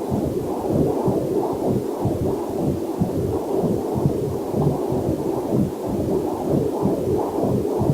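Heartbeat picked up by a fetal Doppler monitor: a fast, rhythmic whooshing pulse, womb-like and muffled. A faint waterfall hiss lies under it.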